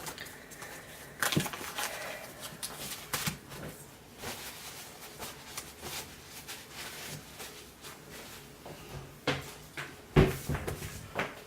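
Scattered clicks and knocks of kitchen containers and utensils being handled while ingredients are weighed, with a louder knock about a second in and another near the end.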